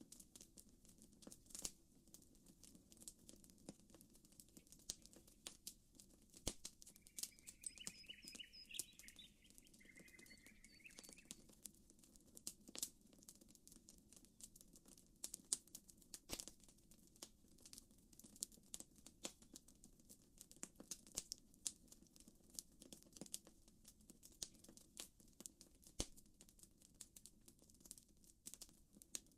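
Faint campfire crackling: frequent sharp pops and snaps at irregular intervals over a low steady background noise. A short run of bird chirps comes about seven seconds in and lasts a few seconds.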